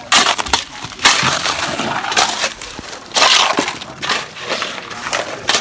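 Wet concrete and gravel being worked and dumped on a foundation pour: bursts of gritty scraping and pouring, about one a second.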